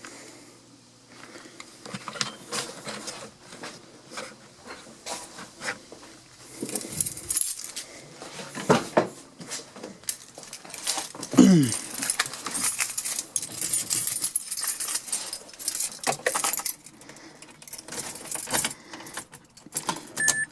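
Car keys jangling and clicking, with irregular knocks and a short falling creak partway through; one short electronic beep near the end.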